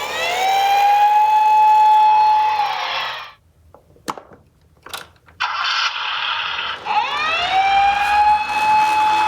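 A toy emergency vehicle's siren wails twice: each wail rises quickly to a steady high tone, holds for about two and a half seconds, then drops away. A few sharp clicks fall in the quiet gap between the two wails.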